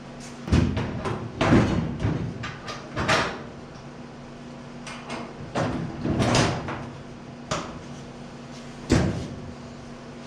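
A series of irregular heavy thuds and clunks, like solid objects knocking or being set down, with a steady low hum underneath.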